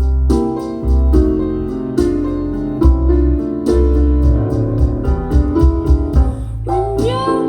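Live jazz band's instrumental break: electric piano chords over a heavy bass line and light drums. A sung voice with gliding pitch comes in near the end.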